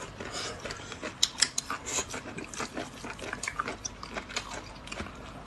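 Close-up eating sounds: wet chewing and slurping of food, with many quick, irregular mouth clicks.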